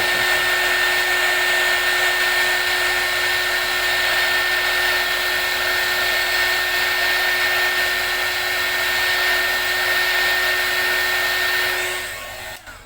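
Electric hot air gun blowing steadily, a rushing noise with a steady whine in it, heating old headlamp tint film to soften it for peeling. It cuts off near the end.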